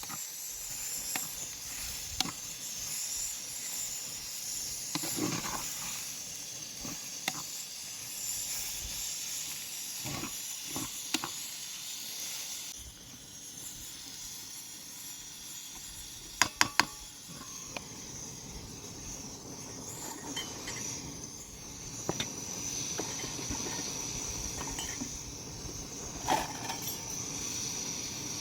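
Food sizzling and hissing steadily in a hot pan, with occasional sharp clicks of a utensil, including a quick cluster of three about two-thirds of the way through.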